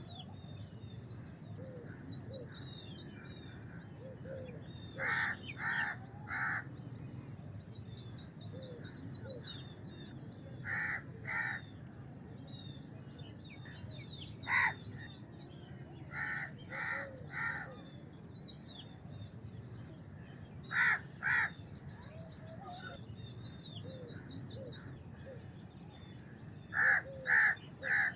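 House crows cawing in short runs of two or three harsh caws every few seconds, over fast, high twittering of small birds and a steady low background rumble.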